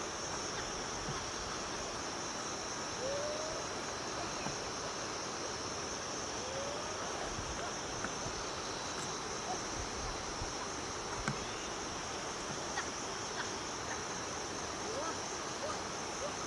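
A steady, high-pitched chorus of insects trilling over a constant background hiss. Two short rising calls break through, about three and about six and a half seconds in.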